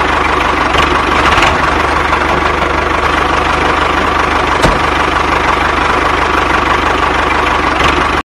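DIY mini tractor's motor running steadily, with one sharp click about halfway through. The sound cuts off suddenly just before the end.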